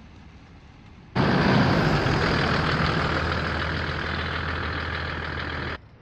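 Toyota Land Cruiser's engine idling with a steady low hum. It comes in suddenly about a second in and cuts off abruptly just before the end.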